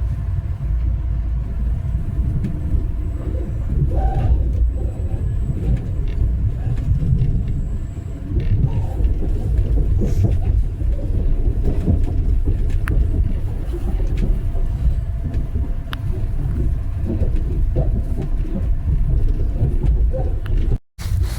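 Steady low rumble of a moving passenger train heard from inside the car, with scattered faint clicks. The sound cuts out for a moment near the end.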